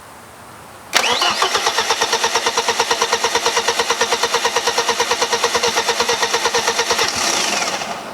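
BMW E36 318ti four-cylinder engine cranked on the starter motor without firing, with a fast, even rhythm of compression pulses for about six seconds before it stops. The fuel pump fuse is pulled, so the engine is only being spun over to build oil pressure in a freshly built turbo engine.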